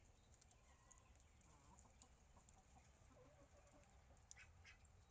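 Faint bird calls over near-silent background hum, with a few short, quick chirps near the end.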